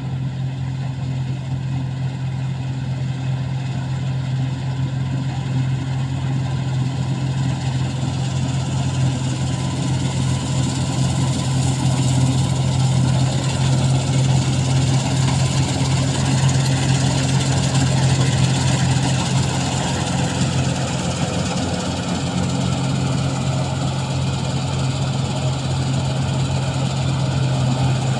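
A harvesting machine's engine running steadily: a constant low drone with a hiss over it, growing a little louder toward the middle.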